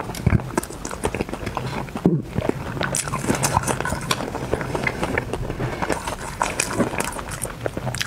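A person chewing sea snail meat close to a lapel microphone: a fast, irregular run of mouth clicks and smacks, with a brief break about two seconds in.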